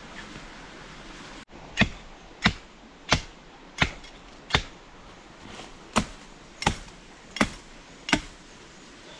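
A blade chopping wood: nine sharp strikes about two-thirds of a second apart, with one slightly longer pause midway.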